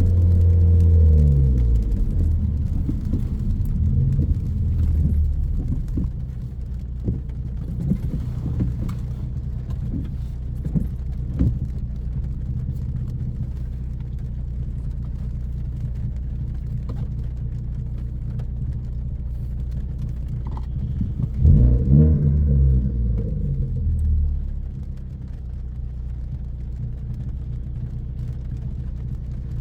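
Turbocharged 2.0-litre four-cylinder of a 2014 Ford Focus ST, with a high-flow catted downpipe and straight 2.5-inch exhaust, droning while cruising. Its pitch drops at the start, then holds steady, with one brief rev-up and fall-off about three quarters of the way through.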